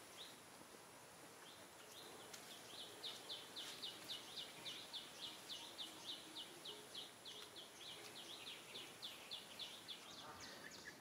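A bird calling faintly over a quiet outdoor background: a rapid series of short, high, falling notes, about four a second, starting about two seconds in and stopping near the end.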